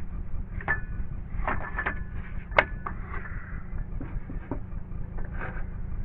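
Scattered knocks and clatter from handling tools and lumber during deck work, about seven in all, the loudest about two and a half seconds in, some with a brief ringing after them, over a steady low rumble.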